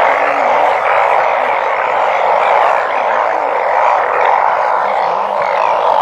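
A loud, steady, dense chorus of many small animals calling at once, a continuous wall of sound with no break.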